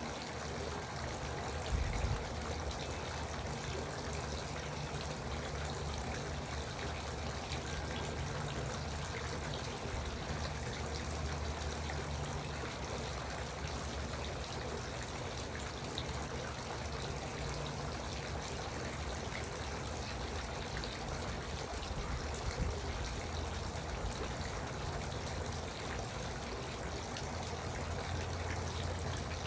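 Garden water fountain trickling and splashing steadily, with a brief low thump about two seconds in.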